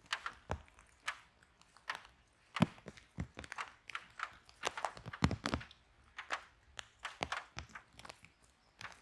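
Wood fire in a fireplace crackling: irregular sharp pops and snaps, several a second at times, over a faint hiss.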